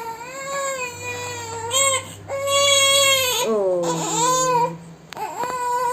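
Pet parrot giving long, drawn-out, whining begging calls while being fed, about four in a row with short breaks between them, each wavering slightly in pitch.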